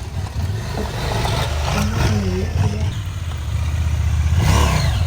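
Motorcycle engine running and revving, the engine note rising and falling.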